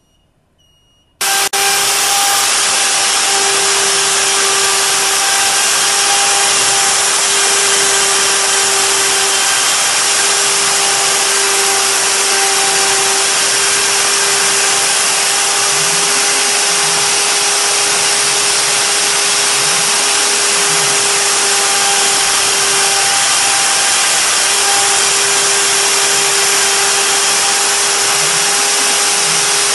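CNC wood router spindle switching on abruptly about a second in, then running steadily at high speed: a constant whine over a loud hiss as it mills the wood.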